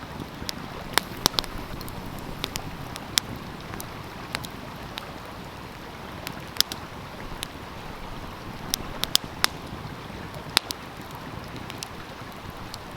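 Wood fire crackling, with sharp irregular snaps and pops over the steady rush of a flowing stream.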